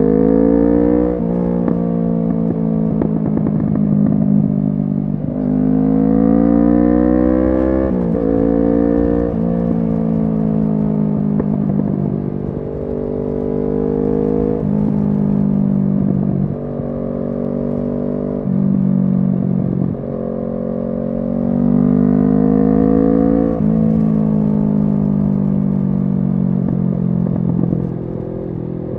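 Kawasaki Z650 parallel-twin engine through an SC Project aftermarket exhaust, ridden on the road. The engine note climbs in pitch under acceleration and drops sharply at each gear change, about four times, with steadier cruising between.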